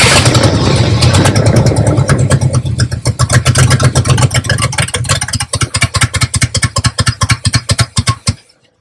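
1972 Buick Riviera's 455 V8 running briefly, then stumbling in uneven pulses and stalling about eight seconds in. It is starved of fuel: the owner judges the fuel pump is not working.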